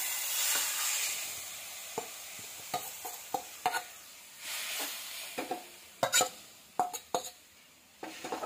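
Grated beetroot dropping into hot ghee in a steel pan, sizzling loudly at first and dying down, with a second brief sizzle about halfway through. A perforated steel spoon scrapes and clinks against the steel bowl and pan, with several sharp clinks in the second half.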